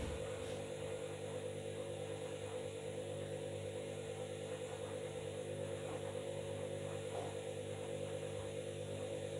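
Washing machine running with a steady electric hum from its motor or pump, pulsing slightly several times a second.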